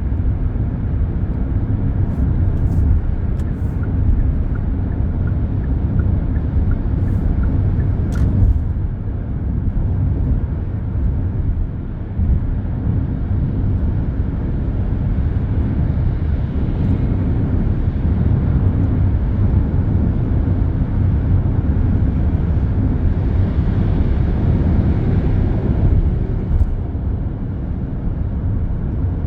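Continuous expressway traffic: a steady low rumble of tyres and engines from many passing vehicles, with a few faint clicks and a brief high beeping early on.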